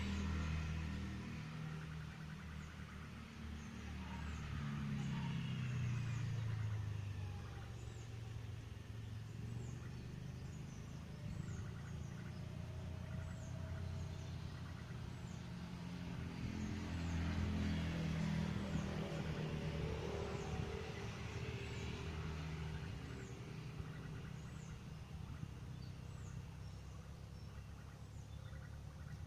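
Road traffic passing, a low rumble that swells twice, while a very high, short, falling chirp repeats about once a second.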